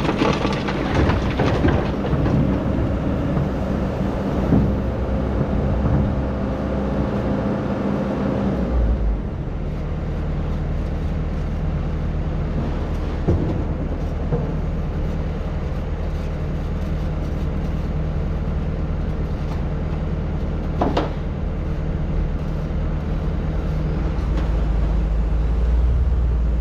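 Excavator's diesel engine running under load, with clanking and scraping during the first several seconds. About nine seconds in the engine note drops to a steadier, lower drone, broken by an occasional single knock.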